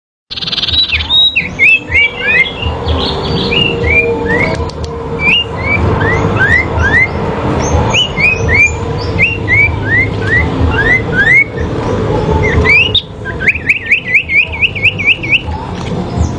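Sirpu songbirds singing against each other in a fighting duel: a long string of short, sharp whistled notes that slide in pitch, ending in a fast, even run of about six rising notes a second. A steady low rumble runs underneath.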